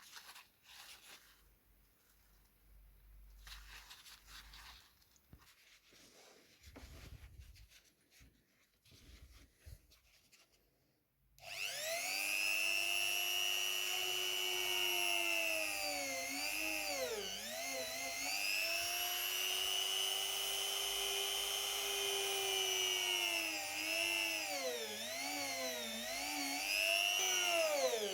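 Light handling and rubbing noises, then about eleven seconds in a small high-speed power tool starts with a loud, high whine. Its pitch sags and recovers again and again as it bears on the material.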